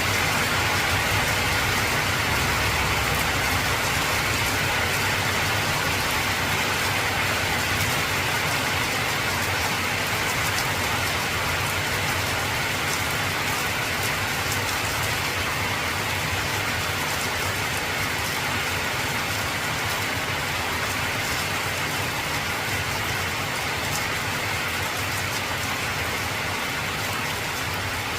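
Heavy rain drumming steadily on an old corrugated zinc roof, a dense even hiss of drops. A low rumble under it in the first few seconds fades away.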